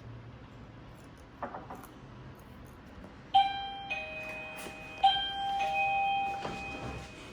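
Electronic doorbell chime ringing a two-note ding-dong twice, a higher tone stepping down to a lower one each time: a visitor at the door intercom calling to be buzzed in.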